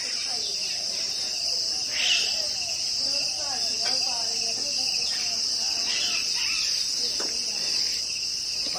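Steady, high-pitched chorus of insects, such as crickets or cicadas, with faint voices in the background.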